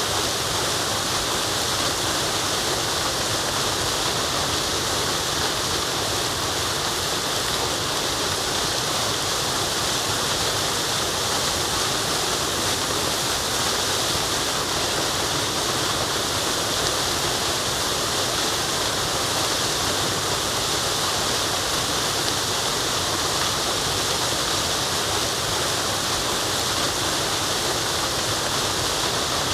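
Waterfall: a steady, unchanging rush of falling water, hissy and bright.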